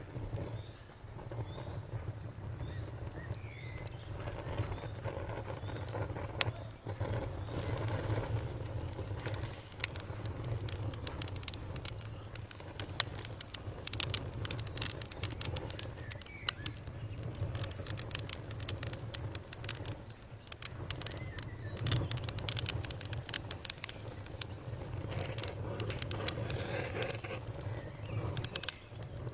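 Fire crackling with many sharp pops and snaps over a low steady rumble. An insect trills at one high steady pitch for the first few seconds, and a few faint bird chirps come through.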